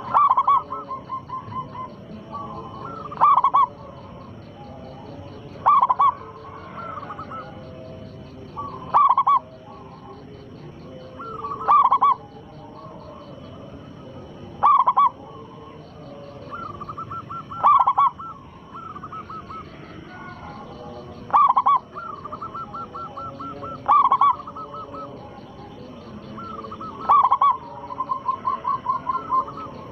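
Zebra dove (perkutut) cooing over and over: a loud coo about every three seconds, several of them followed by a quick rolling string of softer notes. A faint, fast, high ticking runs underneath.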